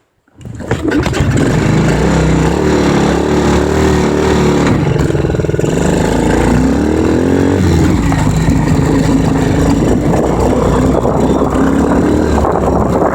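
Dirt bike engine starting about half a second in, then running loudly, its pitch rising and falling as it is revved for a few seconds before settling into steady running.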